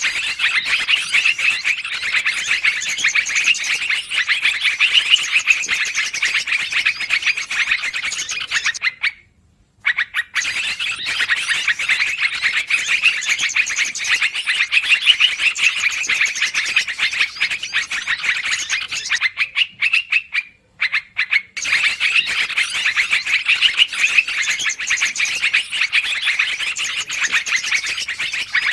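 Bird-lure recording of a trucukan (yellow-vented bulbul) calling noisily, as dense rapid chattering. It runs in three stretches, each broken by a short pause of about a second, like a looped track.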